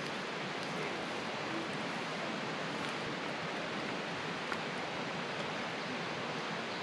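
Steady rushing of a river, an even hiss with no pauses, and a faint click about two-thirds of the way through.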